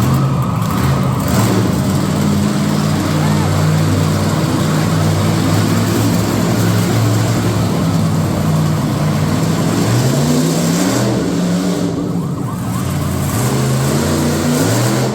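Monster truck engine revving hard, its pitch climbing and dropping again and again, over a loud, even rush of noise.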